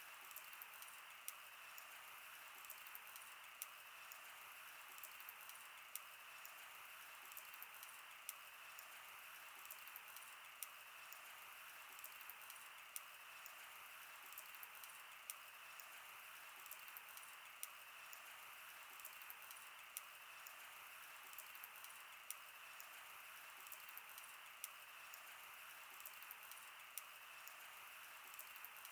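Wood fire crackling: a soft steady hiss with irregular small snaps and a louder pop every second or two.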